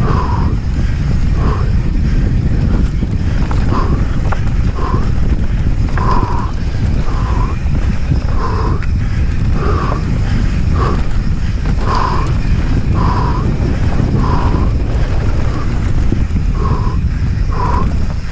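Mountain biker breathing hard under race effort, a short forceful exhale about once a second, over a steady low rumble of wind and tyres on the dirt trail.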